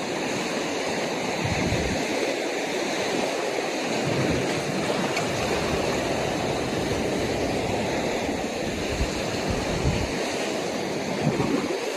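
Ocean surf washing steadily along the atoll shore, with gusts of wind buffeting the microphone now and then.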